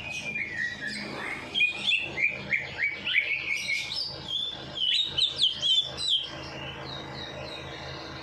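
Songbird singing a fast, varied run of chirps and whistles, then softer, evenly repeated notes near the end.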